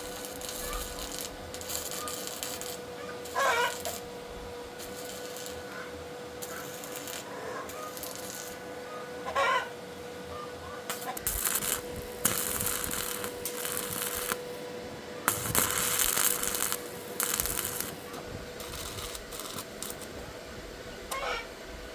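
Workshop sounds of scattered clinks and short bursts of hiss over a steady faint hum, while a chicken calls briefly three times in the background.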